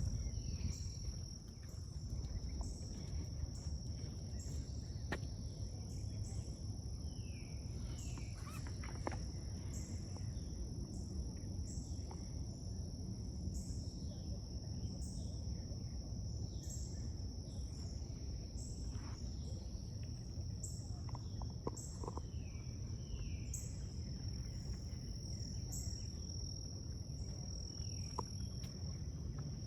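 Forest insects: a steady high-pitched drone with a second insect chirping regularly about once a second. Short falling bird calls come now and then over a low rumble.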